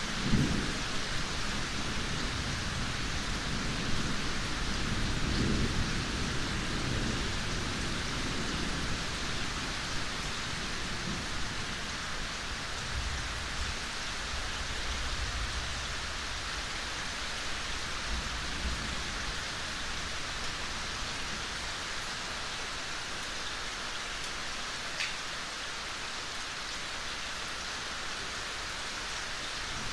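Steady rain falling in a forest, an even hiss, with low rumbles swelling and fading in the first several seconds.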